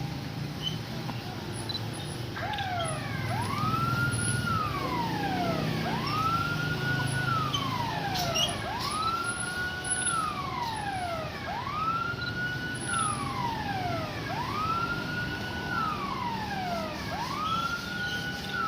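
A wailing siren starting about two seconds in and repeating roughly every two and a half seconds, each cycle rising quickly, holding, then falling slowly, over a low rumble.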